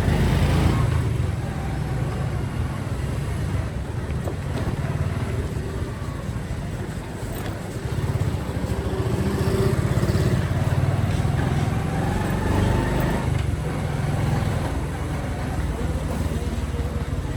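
Motorcycle engine running steadily while riding, heard from the rider's seat, with faint rising and falling engine notes over a continuous low rumble.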